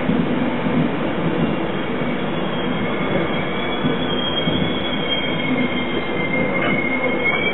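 Passenger train moving through a station with a steady, loud rumble. From about three seconds in, thin high-pitched wheel squeal joins it and wavers in pitch near the end.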